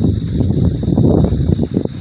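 Storm wind gusting against the microphone, a heavy low rumble that surges irregularly.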